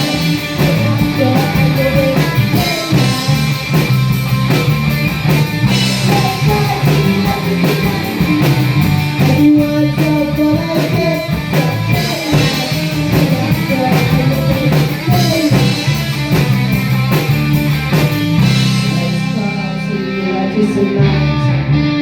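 Live rock band playing with electric guitars, bass and drum kit, and a melody line over the top. Near the end the drums drop out, leaving the guitars ringing on.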